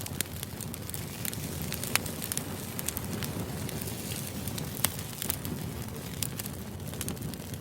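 Steady low rumbling background noise with irregular sharp crackles and clicks scattered through it.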